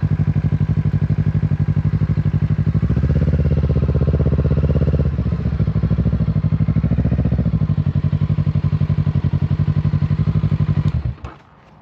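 Kawasaki Z650's parallel-twin engine idling with an even, throbbing pulse, revved twice in short blips a few seconds in, then switched off near the end, after which it goes quiet.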